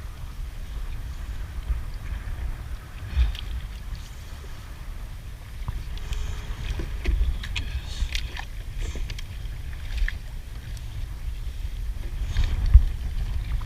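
Wind rumbling on the microphone as a kayak is paddled, with scattered short splashes and knocks from the paddle, the sharpest near the end.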